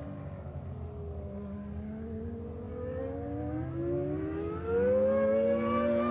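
Williams FW15C Formula One car's 3.5-litre Renault RS5 V10 engine accelerating, its pitch climbing steadily through the gears and growing much louder about five seconds in.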